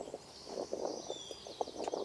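A man chewing food, with soft, irregular wet smacking mouth sounds. Birds chirp faintly in the background.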